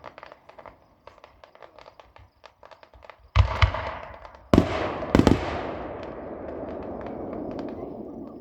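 Fireworks going off: scattered faint pops and crackles, then a loud bang about three seconds in and two more about a second later, each trailing into a long fading rumble.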